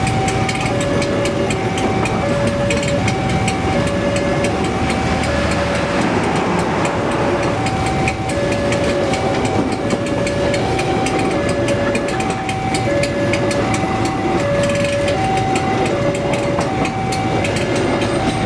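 Passenger train coaches rolling past with a steady wheel rumble and clicking over the rail joints, while a railway level-crossing warning alarm sounds over it, alternating between a lower and a higher tone about every three-quarters of a second.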